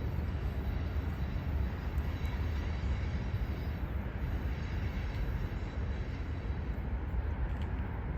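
Two diesel locomotives leading a transfer freight train, a steady low rumble with no horn.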